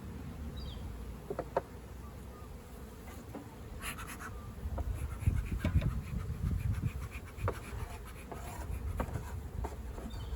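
Honeybees buzzing around an open hive during a frame inspection, with a few short scrapes and clicks from the hive tool working the wooden frames, the busiest of them about four seconds in.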